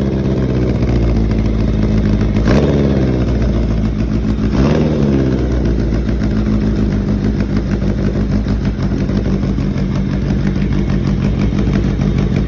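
Carbureted engine, its carbs freshly tuned and its ignition timing set, idling steadily; it is blipped twice in the first five seconds, the revs rising and falling back quickly each time.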